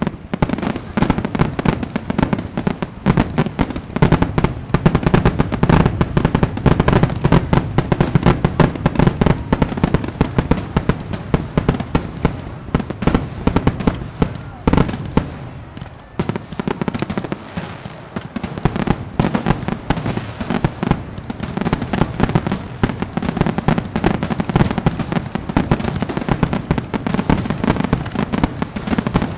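Fireworks display: a dense, continuous run of bangs and crackles, thinning briefly about halfway through before building up again.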